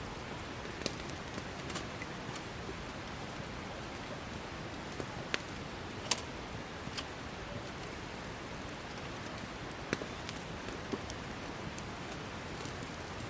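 Wood campfire burning: a steady hiss with sharp crackles and pops at irregular intervals, one every second or two.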